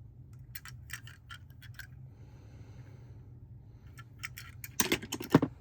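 Die-cast toy cars being handled: scattered light clicks and clinks, then a louder cluster of clinks and knocks near the end.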